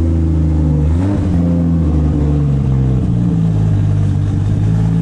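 Single-turbo Toyota Supra engine idling steadily, its pitch shifting slightly about a second in and again near three seconds.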